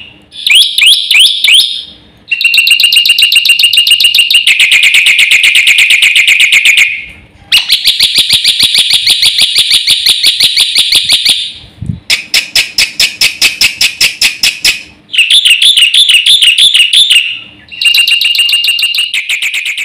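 Black-winged starling (jalak putih) singing loudly in long runs of fast, rapidly repeated shrill notes, about six runs broken by short pauses.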